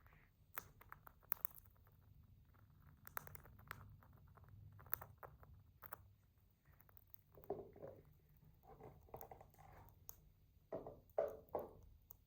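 Faint scattered clicks and scratching, with a few short soft voice-like sounds in the last few seconds.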